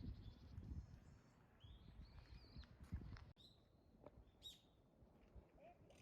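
Faint bird calls: a handful of short chirps scattered through, some sliding down in pitch, over a low outdoor rumble that fades in the first half, with a sharp click about three seconds in.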